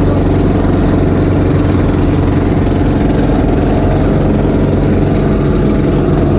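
A small fishing boat's engine running steadily and loudly, with an even, unbroken drone.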